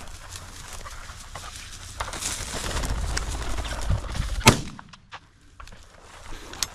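A single shotgun shot about four and a half seconds in, fired at a flushed chukar that drops: the loudest thing heard. Before it comes a few seconds of rustling noise.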